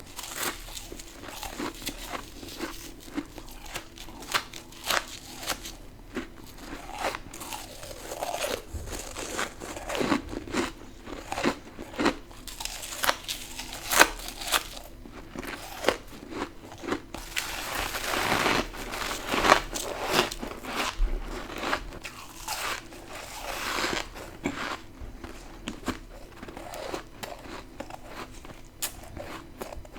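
A person biting into and chewing crunchy ice close to the microphone: irregular sharp crunches and crackles, with a denser run of crunching about eighteen to twenty seconds in.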